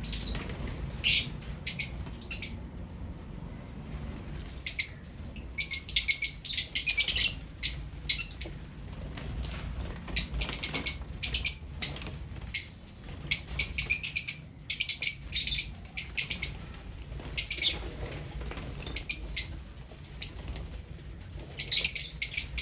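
Lovebirds chirping in short, sharp, high-pitched bursts that come in irregular clusters.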